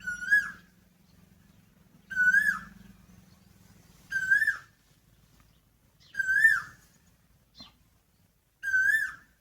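Asian koel (koyal) calling: five short whistled notes about two seconds apart, each rising and then dipping in pitch.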